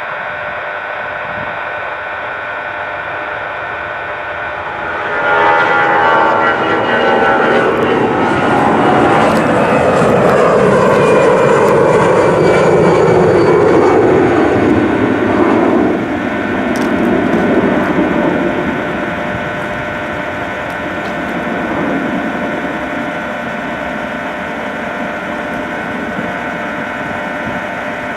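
Airbus A319 jet engines on the takeoff run, passing close by: a loud rush of engine noise comes up about five seconds in, with whining tones that fall in pitch as the aircraft goes past, then fades to a lower, steadier drone.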